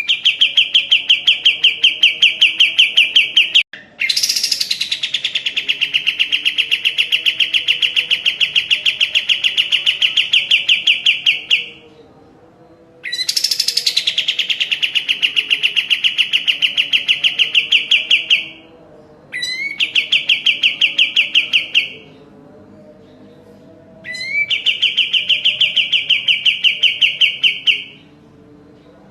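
Kapas tembak (a bulbul) singing: long bouts of a fast, even run of repeated notes, each bout opening with a quick upward sweep. There are five bouts, with short pauses between them.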